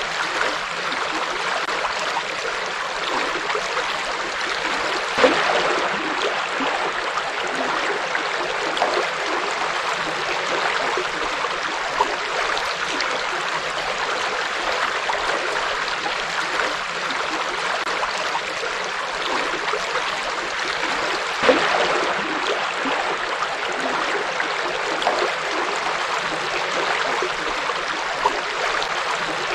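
Forest river flowing steadily over rocks, an even rushing and babbling of water, with a brief louder splash about five seconds in and again about twenty-one seconds in.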